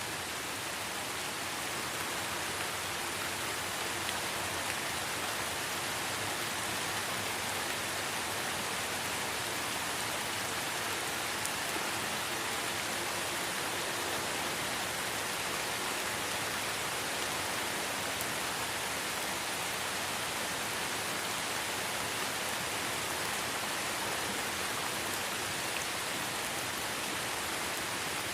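Light rain falling in a forest, a steady, even hiss that does not change.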